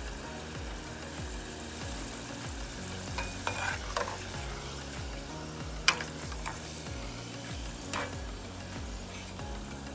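Breaded chicken tenders deep-frying in oil, a steady sizzle, with a few sharp clinks of a utensil against the pan, loudest about six seconds in. Background music with a steady beat runs underneath.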